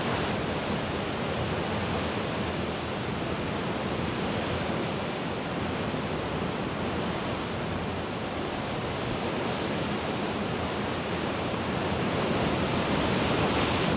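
Mediterranean sea waves washing against the shore in a steady wash, swelling gently and slightly louder near the end.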